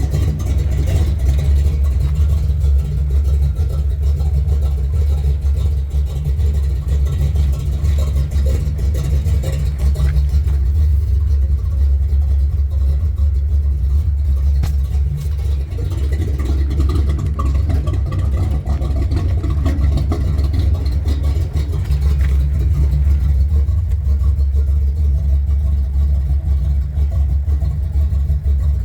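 1970 Chevy C10 pickup's engine running with a steady low rumble.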